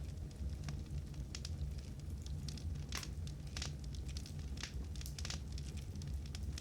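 Wood fire burning in a fireplace: burning logs crackling with irregular sharp pops over a low, steady rumble of the flames.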